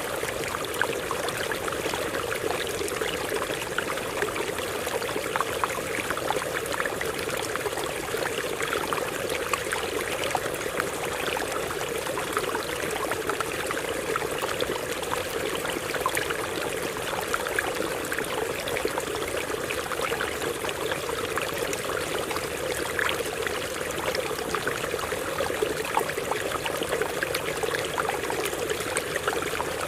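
Stream water running over rocks, a steady rushing with many small splashes and no change in level.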